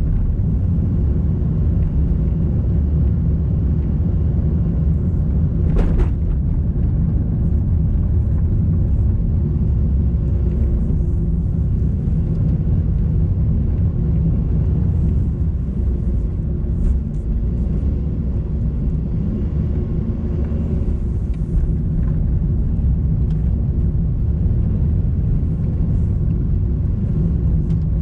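Car driving along a road: a steady low engine and road rumble, with a single sharp click about six seconds in.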